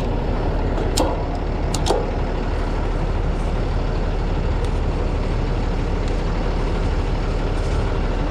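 Hino rollback truck's diesel engine idling steadily, with two sharp clinks about a second apart early on.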